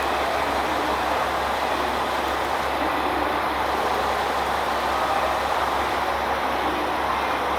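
JR Kyushu's A-Train, a KiHa 185 series diesel railcar, running: a steady, even running noise with a low hum beneath, unchanged in level throughout.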